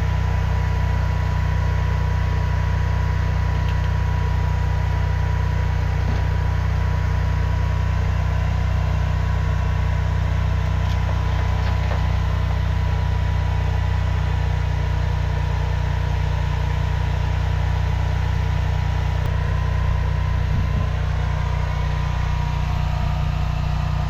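High-pressure drain jetter's engine running steadily at a constant speed, a low even hum.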